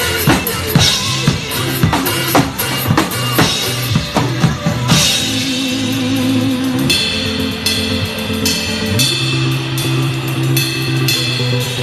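Drum kit played along to a pop backing track. A dense run of snare and bass-drum hits fills the first five seconds. A crash comes about five seconds in, and after it the drumming thins out under the track's held chords.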